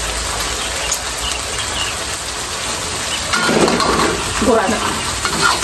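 Food sizzling steadily in hot oil in a wok over a gas flame. A woman's voice joins a little past halfway.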